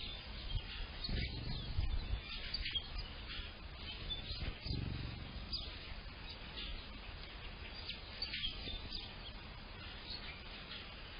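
Several songbirds chirping and singing, short high notes overlapping one another throughout, with a low rumble now and then.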